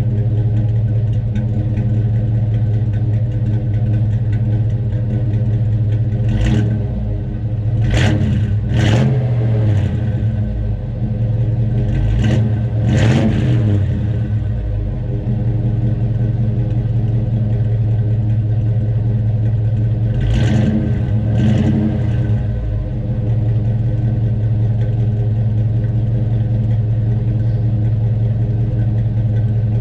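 Chevelle's engine idling through a 2.5-inch stainless true dual exhaust with single-chamber mufflers, blipped in short revs: three a few seconds in, two near the middle, and two more about two-thirds of the way through, each settling straight back to idle.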